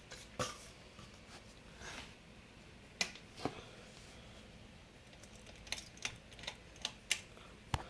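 About ten irregular sharp clicks and light taps, bunched in the second half, over a faint steady background. They come from the ceiling fan being handled and switched over to low reverse.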